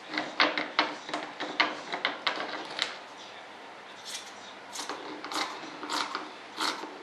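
Scissors snipping through fiberglass cloth: a quick run of snips, then slower, spaced cuts from about four seconds in.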